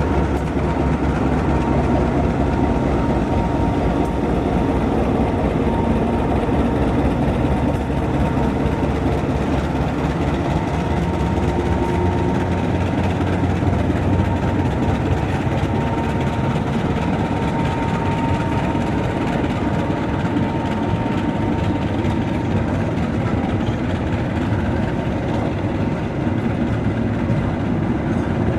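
Diesel-hauled passenger train running, a steady heavy rumble of locomotive and rolling wheels that holds an even level.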